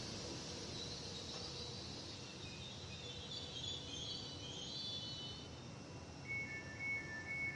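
Trenitalia Pop electric multiple unit rolling slowly to a stop at a platform, with a high brake squeal about halfway through. Once it stands, a repeated two-tone electronic beeping starts.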